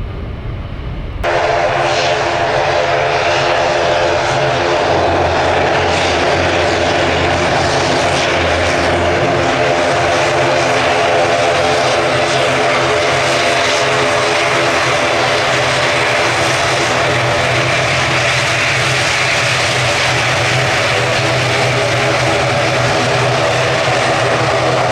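Aircraft engines running loud and steady, a roar with a stack of steady humming tones. It starts abruptly about a second in.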